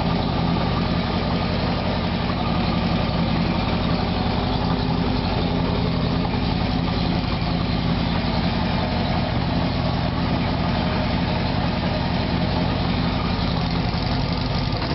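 1977 Kawasaki KZ1000 A1's air-cooled inline four, built up with 1075 big-bore pistons, stage 2 cams and 35 mm CR carburettors, idling steadily shortly after a cold start without choke.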